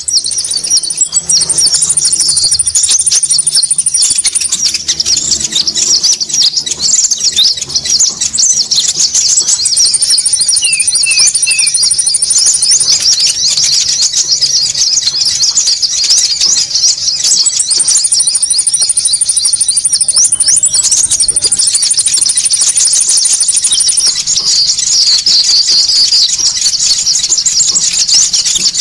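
Bird-lure recording of konin calls: a dense, loud, unbroken chorus of quick high chirps, as of many small birds calling at once. Long high trills break in over the chatter three times.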